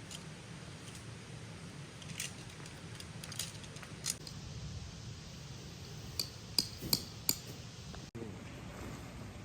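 A few light metallic clinks and taps of cookware or utensils being handled, most of them bunched together a little past the middle, over a steady low background.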